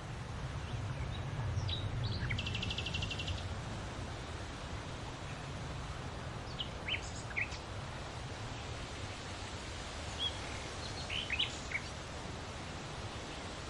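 Small birds chirping now and then over steady wind in trees, with leaves rustling and a low rumble; a quick buzzy trill comes about two to three seconds in.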